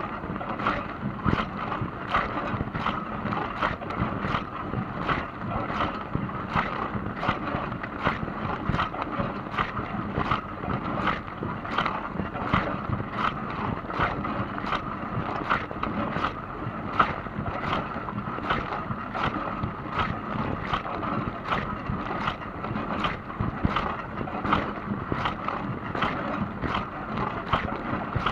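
Dishwasher running through its wash, water spraying inside the tub in a steady rush, with a regular swish that comes round about three times every two seconds.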